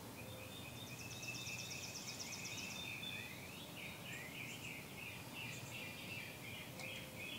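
Faint outdoor birdsong: several birds chirping with short repeated notes, and a fast high trill for about two seconds starting a second in, over a steady low background hiss.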